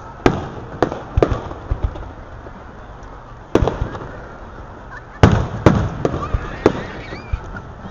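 Aerial firework shells bursting, about seven sharp booms at uneven intervals, each followed by a rolling rumble; the loudest two come close together about five seconds in.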